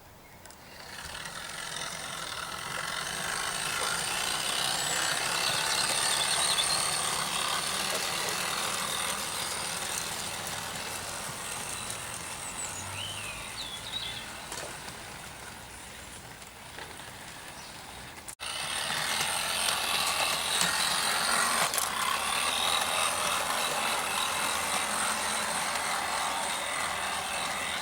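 O gauge model locomotive running along garden railway track: a steady rattling running noise that swells, then slowly fades as it passes, breaks off suddenly after about 18 seconds and picks up again at a steady level. A few faint bird chirps come through about halfway in.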